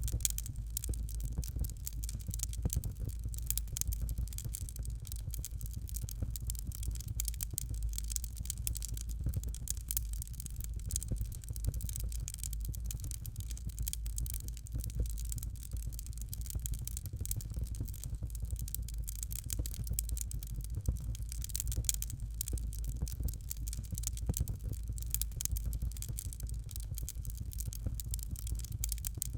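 Fireplace fire crackling: dense, irregular small snaps and pops over a steady low rumble of the flames.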